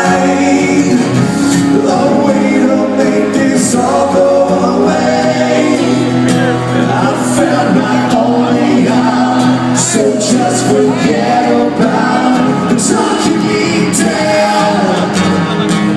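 Hard rock song with a band playing and a singer's voice over it: sustained guitar chords, with drums and cymbals hitting throughout.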